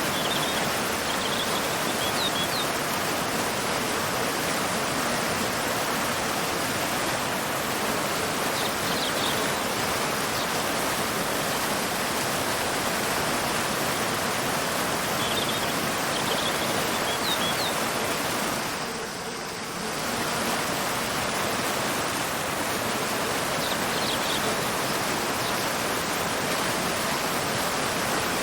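Waterfall pouring into a river: a steady rush of falling water. Short high bird chirps come through it about four times. The water briefly dips in level about two-thirds of the way in.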